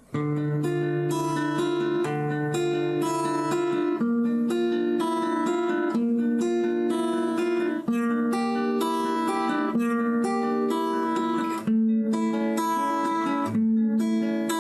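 Acoustic guitar fingerpicked in a steady eight-note arpeggio pattern, changing chord about every four seconds through a minor-key progression of C minor, A-flat, F minor and G.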